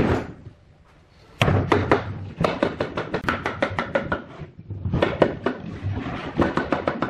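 Rapid knocking of a tool on wood, about five sharp strikes a second, in two runs separated by a short pause.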